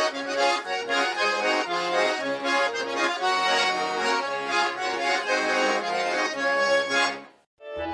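Accordion playing an instrumental chastushka tune, with many notes sounding together; it cuts off abruptly a little after seven seconds in.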